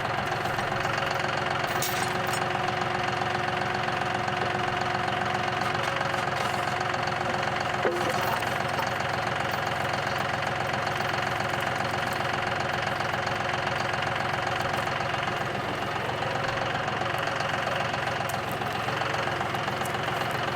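Tractor engine running steadily, with a faint knock about eight seconds in.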